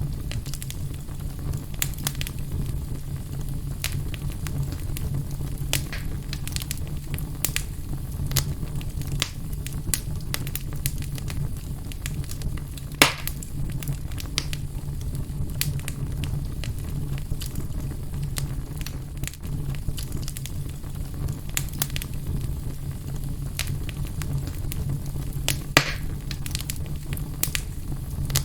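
Wood fire burning in a fireplace: frequent sharp crackles and pops over a steady low rumble, with two louder pops, one about halfway through and one near the end.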